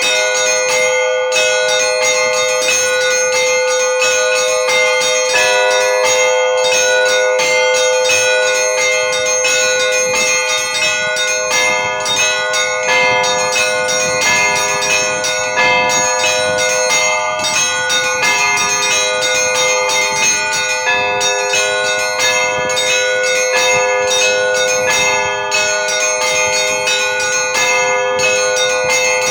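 Russian Orthodox church bells rung by hand in an Easter peal: several bells struck together in a fast, unbroken chime, many strikes a second over sustained ringing tones.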